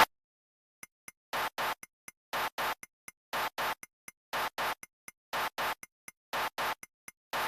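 A looped rhythmic sound effect: pairs of short scratchy swishes repeating about once a second, with faint ticks between them.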